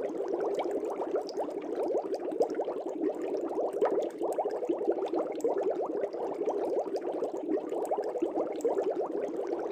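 Aquarium air bubbles rising and breaking at the water surface: a steady, dense stream of small quick bubbling pops.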